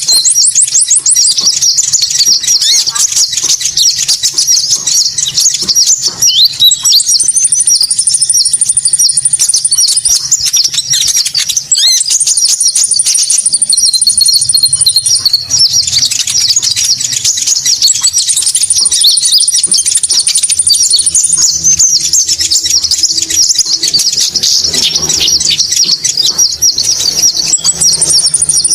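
Konin bird-call lure recording: dense, rapid high chirping and twittering without a break, with a thin, steady high whistle held for two to three seconds that returns four times.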